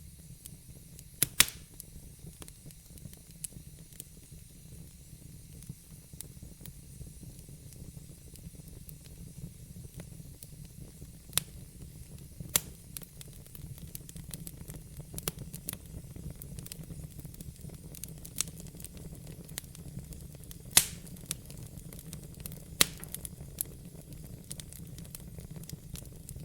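Log fire burning in a fireplace: a steady low rumble and soft hiss with scattered sharp crackles, and a handful of louder pops from the burning wood.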